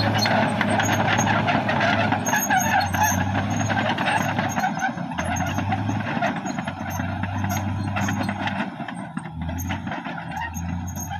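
CAT D6R XL bulldozer at work: its diesel engine running steadily under a dense clatter of knocks and clanks, typical of the steel tracks and blade moving earth.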